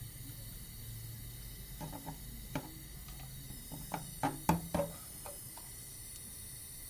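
A steady hiss runs under a cluster of sharp knocks and clicks about two to five seconds in, the loudest near the middle.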